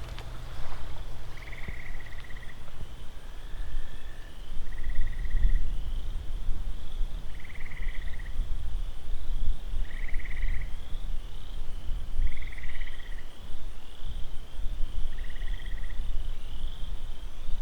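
Swamp chorus of frogs and insects: a short buzzing trill, about a second long, repeats every two to three seconds over a steady high drone, with a low rumble underneath.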